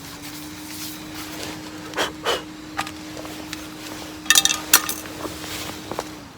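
Scattered knocks and clicks of firewood being handled and put into a small metal fire box, with a cluster of sharper, ringing metallic clinks about four to five seconds in, over a steady low hum.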